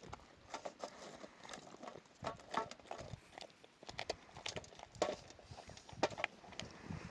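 A series of irregular light knocks and taps, a few louder than the rest.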